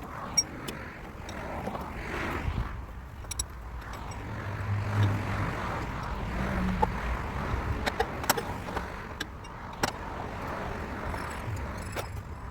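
Scattered sharp clicks and knocks, about a dozen, over a steady rumbling noise.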